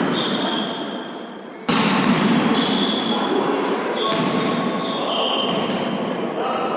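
Volleyball being hit and bouncing on an indoor court during a volley tennis rally: sharp smacks about two seconds and four seconds in, with short high squeaks and voices echoing in the hall.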